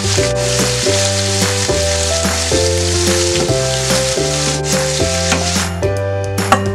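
Prawns sizzling as they fry in hot oil with garlic in a frying pan, stirred with a wooden spoon, over background music with a stepping bass line. The sizzling stops short about six seconds in, leaving only the music.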